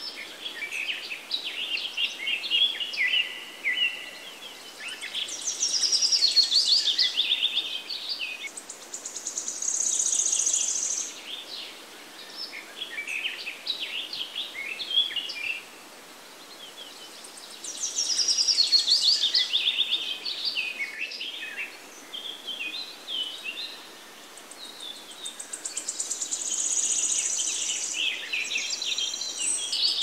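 Birds singing and chirping in a field, several songs overlapping, with a fast high trill among them. The song swells into louder bouts every several seconds and drops back to scattered chirps between.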